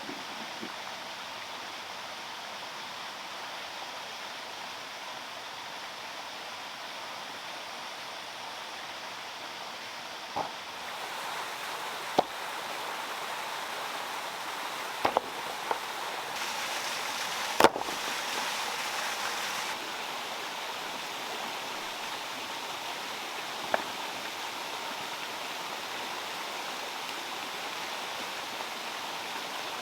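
Steady rush of running water, louder for a stretch in the middle, with a handful of sharp knocks scattered through it, the loudest about eighteen seconds in.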